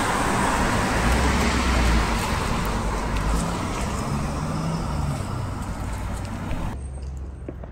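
Road traffic: the rushing noise of a passing vehicle, slowly fading, then dropping off abruptly near the end.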